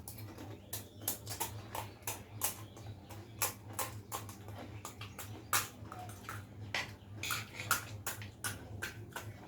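Close-up eating sounds: wet chewing and crunching of pani puri and chatpate, an irregular run of sharp clicks and smacks several times a second.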